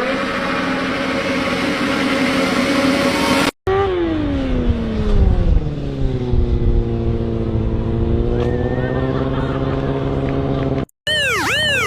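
Motorcycle engine running at high revs, then in a second clip dropping in pitch as the throttle closes and holding at a lower, steady speed. The sound cuts out sharply twice between clips.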